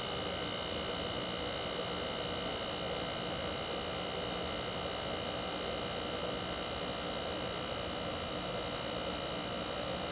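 Window air conditioner running with its fan on medium speed: a steady hum and rush of air with several steady tones, holding an even speed throughout. On low speed this unit's fan motor bogs down, which the owner hopes is only from sitting unused for a long time.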